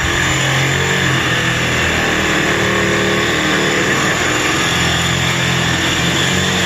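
Cordless power tool running steadily under load while cutting metal apart, with a strong hiss and a low motor hum underneath.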